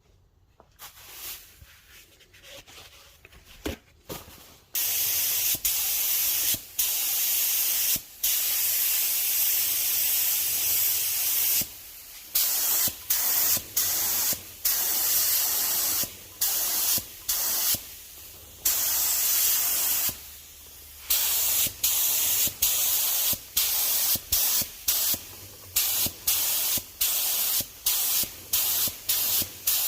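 Spray painting: a steady spray hiss starts about five seconds in, after a few faint clicks, and is then stopped and restarted over and over in short passes, more often toward the end.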